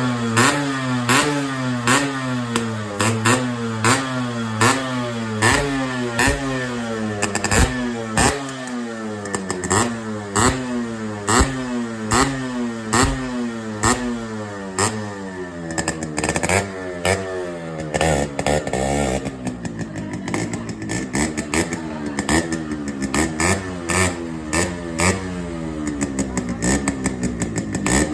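Yamaha RX 100's two-stroke single-cylinder engine being revved over and over in quick throttle blips, its pitch rising and falling back about once a second, with sharp pops between the blips.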